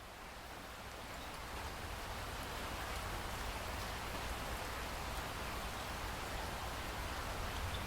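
Steady rain falling, growing louder over the first few seconds and then holding steady.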